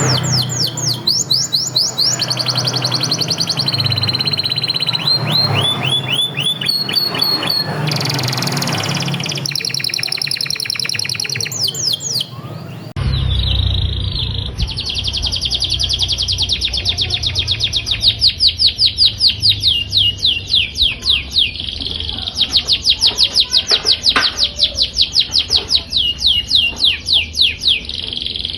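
Domestic canary singing loud, fast trills and rapid runs of repeated sweeping notes. About halfway through, the song switches abruptly to a different canary recording with long trains of quick falling notes.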